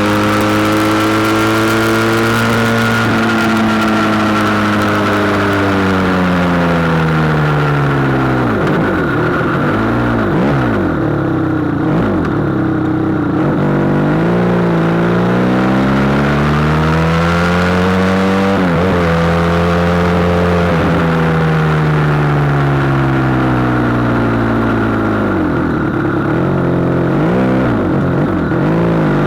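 SBM 400 motorcycle engine heard while riding, its pitch falling steadily as it slows about three to nine seconds in. Then it rises and drops several times in quick succession, with a longer climb and fall in the middle, and more quick dips near the end.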